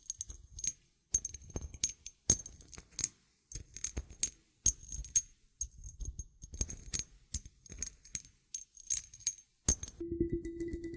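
Small metal pieces jingling and clinking in a run of light, uneven taps, each with a bright high ring. About a second before the end a steady low tone starts.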